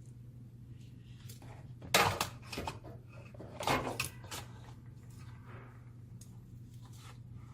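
Parts of a laser printer fuser unit being handled, with a sharp clatter of hard plastic and metal about two seconds in and another shortly after, plus a few lighter clicks, over a steady low hum.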